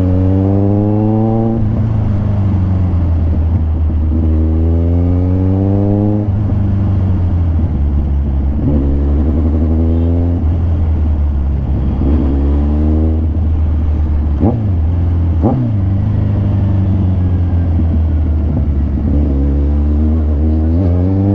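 Kawasaki Ninja 1000's inline-four engine through an SC-Project aftermarket exhaust, accelerating hard: the pitch climbs and drops at each upshift, about five times, over a steady low rumble. Two short sharp blips come about two-thirds of the way through.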